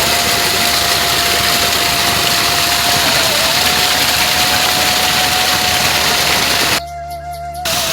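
Heavy rain, a loud steady hiss, with a long held note of background music over it. The rain cuts out abruptly for under a second near the end, then returns.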